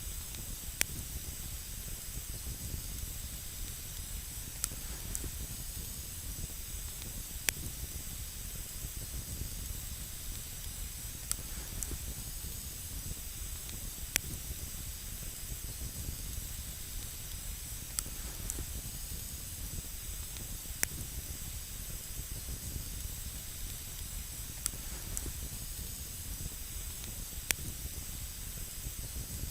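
Wood campfire burning with a steady hiss, with sharp single crackles popping every few seconds.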